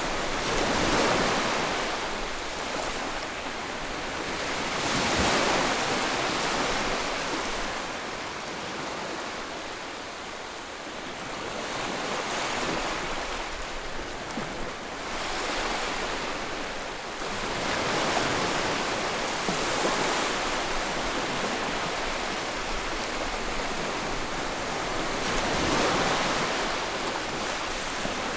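Sea waves breaking and washing on the shore, a continuous rushing surf that swells and ebbs, with louder surges every few seconds.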